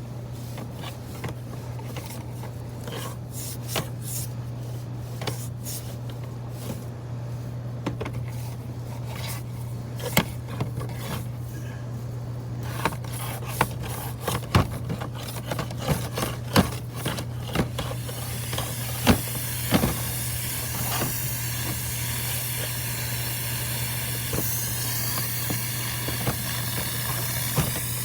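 Dryer vent cleaning equipment at work: a steady motor hum with many scattered knocks and scrapes. About two-thirds of the way through, a strong, steady rush of air joins in and holds.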